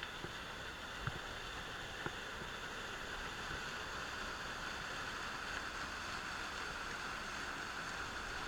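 Waterfall cascading steadily over rock steps into pools, a constant rushing of water. A couple of faint clicks sound in the first two seconds.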